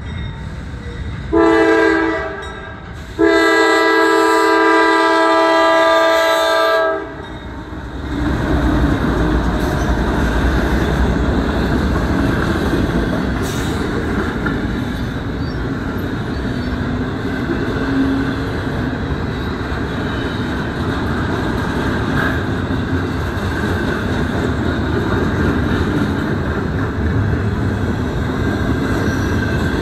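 Diesel locomotive air horn sounding a short blast and then a long one. It is followed by the locomotives and intermodal well cars rolling past with a steady rumble and wheel clatter.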